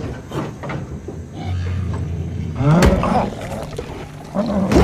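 Film soundtrack with animal-like growling calls, two pitched cries that rise in pitch, one past the middle and one near the end, over a low steady rumble.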